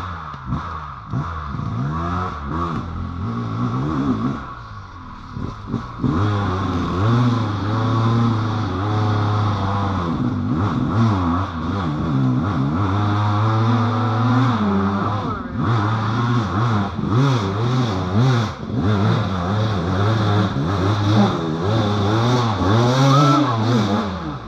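Motorcycle engine being ridden, revving up and falling back over and over as the throttle opens and closes, louder from about six seconds in.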